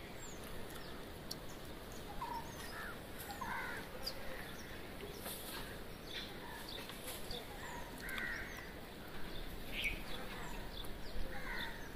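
Faint, scattered bird calls and high chirps against quiet outdoor background noise.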